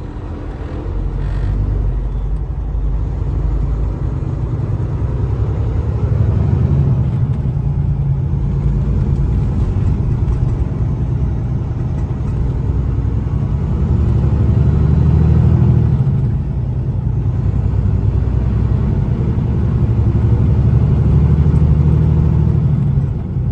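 Semi-truck cab on the road: diesel engine drone and road noise as a low, steady rumble that swells louder a few times.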